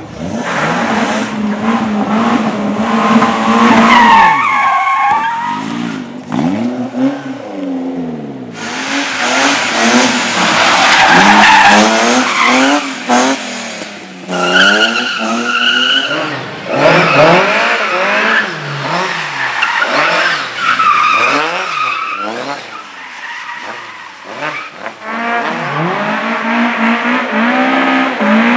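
Slalom competition cars accelerating and braking hard, engines revving up and falling back again and again through gear changes, with tyres squealing in the tight turns several times.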